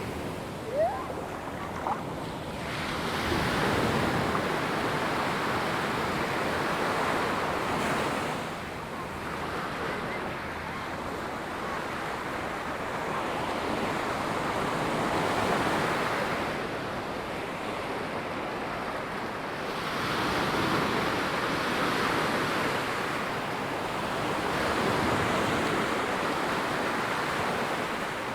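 Ocean waves breaking and washing up on a sandy beach, the surf swelling and easing every four to six seconds. A brief sharp sound stands out about a second in.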